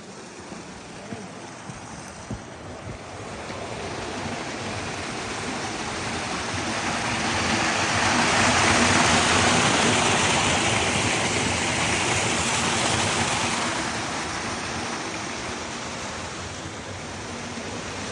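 Rushing water, a steady noise that swells to its loudest about halfway through and then eases off.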